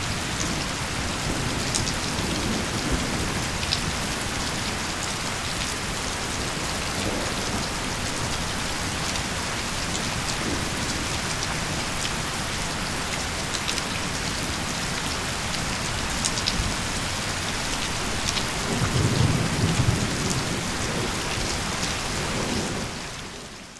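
Steady heavy rain with scattered close drips, and a low rumble of thunder about 19 seconds in. Near the end the whole storm sound fades out.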